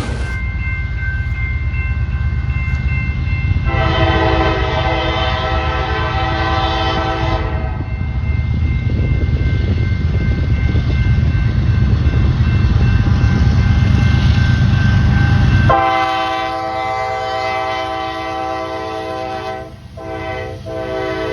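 Train passing with a low rumble while its multi-tone horn sounds one long blast a few seconds in. After an abrupt change, a train horn's chord sounds again, held with a brief break near the end.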